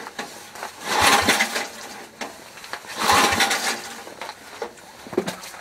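Cold start of a 1968 Sears Suburban's 8 hp Briggs & Stratton engine with the choke on: the starter cranks it in two short bursts, about a second in and about three seconds in. The engine does not catch and settle into running.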